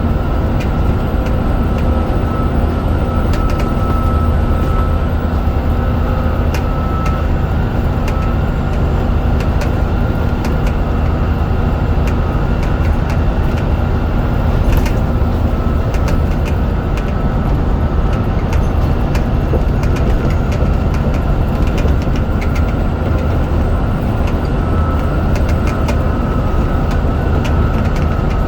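Scania DC9 9.0-litre five-cylinder diesel of a Scania N94UD double-decker bus running steadily under way, heard from on board, with a low engine drone and scattered light rattles.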